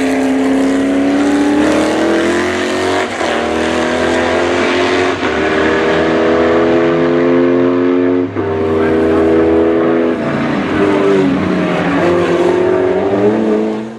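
Race car's 6.2-litre Chevrolet CT525 V8 under hard acceleration, its pitch climbing and dropping sharply at upshifts about 3, 5 and 8 seconds in, then falling away after about 10 seconds as it comes off the throttle.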